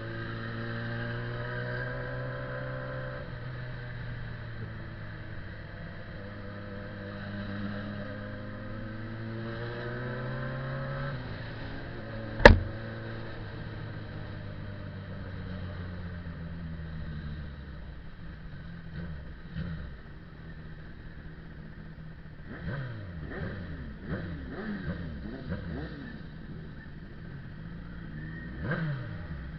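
Motorcycle engines running, with a single sharp knock about twelve seconds in. Near the end several engines rev and pass, rising and falling in pitch.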